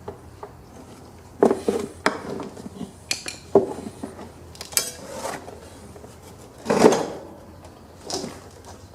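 Scattered light metal clinks and knocks as a retaining clip is worked off the mower deck linkage of a Cub Cadet XT1 lawn tractor, with a louder clank a couple of seconds before the end.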